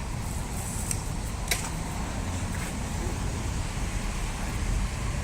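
An engine running steadily with a low rumble, with one short sharp click about a second and a half in.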